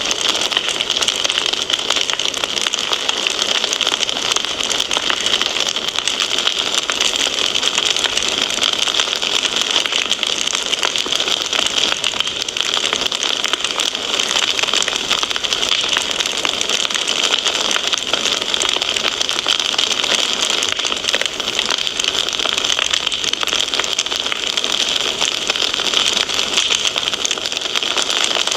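Wood fire in a fireplace crackling steadily: a dense, continuous run of small pops and snaps over a constant hiss.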